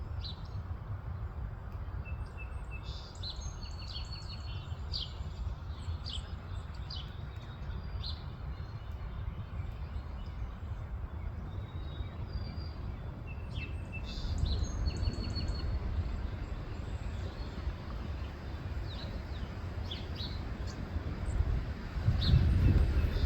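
Songbirds giving short chirps and call notes, scattered and sometimes overlapping, over a steady low rumble that grows louder near the end.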